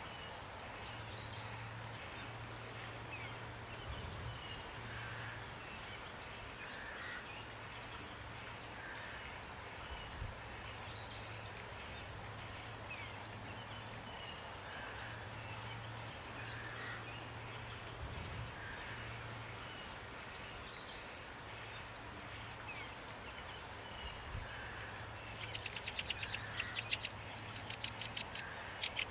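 Steady rain hiss with several small birds calling in high, repeated chirps and short downward-sweeping notes. Near the end comes a louder rapid trill.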